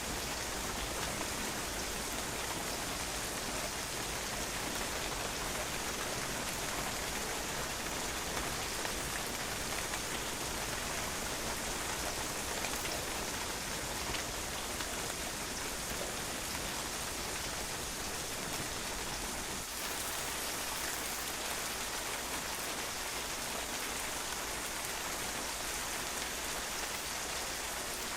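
Steady rain, the drops pattering on a patio as a constant even hiss.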